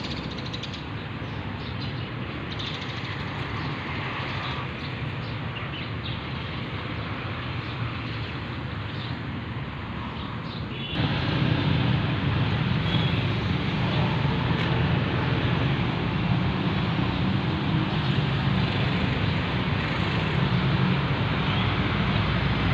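Steady road and traffic noise, a continuous rushing haze with no distinct events, which jumps abruptly louder and deeper about halfway through.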